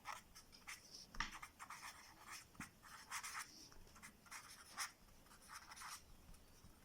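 Faint scratching of handwriting: a quick run of short pen strokes on a surface, with brief pauses between them.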